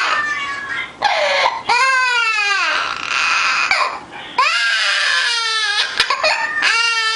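Parrot mimicking a crying baby: several long wails, each rising and then falling in pitch, with short breaks between them.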